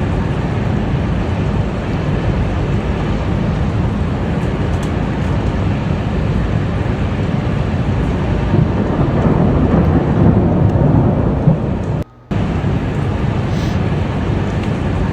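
Thunder rumbling with heavy rain during a storm, a dense steady noise that swells about nine to eleven seconds in. The sound cuts out for a moment about twelve seconds in.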